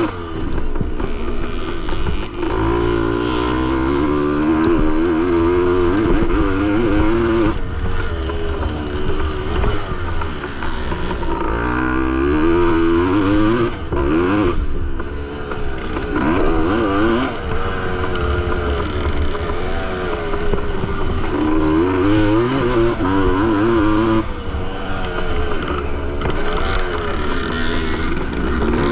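1973 Yamaha MX250's two-stroke single-cylinder engine at race speed, its pitch rising and falling again and again as the rider works the throttle and shifts gears.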